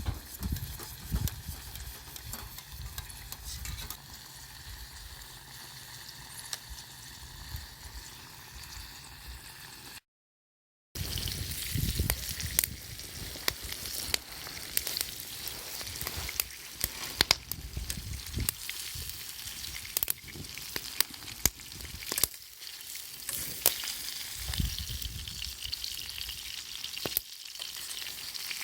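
Food sizzling as it fries, with many sharp pops and spatters. The sound cuts out completely for about a second midway.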